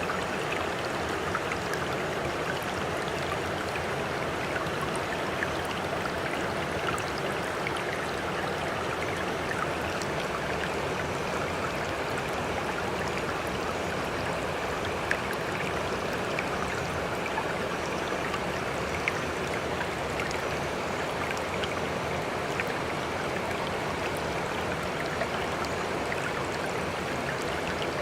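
Water running and trickling in a steady, unbroken wash, with many small drip-like ticks scattered through it.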